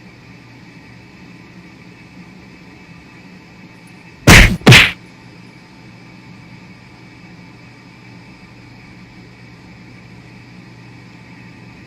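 Two loud, sharp bangs in quick succession over a steady low hum.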